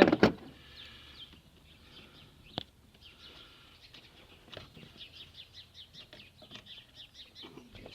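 Birds chirping in the background, a quick run of short high chirps, with one sharp metallic click about two and a half seconds in.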